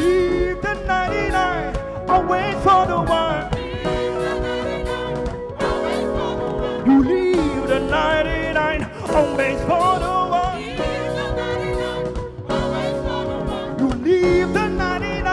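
Live gospel worship music: a worship leader and congregation singing over a band of keyboard, bass and drums.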